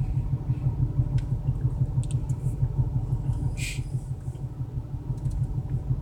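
BMW 335i's turbocharged straight-six running rough with an uneven, lumpy low rumble: it is misfiring on cylinders 4 and 6. A brief hiss cuts in about three and a half seconds in.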